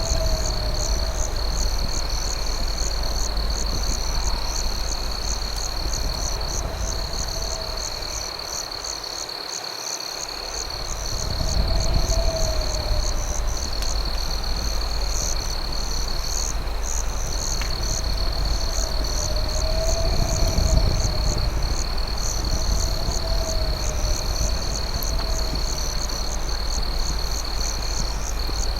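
Night chorus of crickets: a steady high trill with a faster pulsing chirp above it, and a lower call repeating every few seconds. Underneath is a steady low rumble that fades briefly about a third of the way in.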